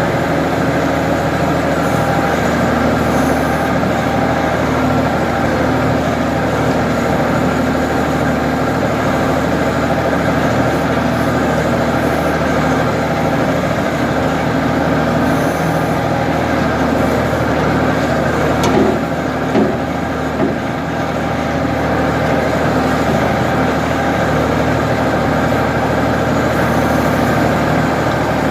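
Ford 550 backhoe's engine running steadily under work, with a few short knocks about two-thirds of the way through.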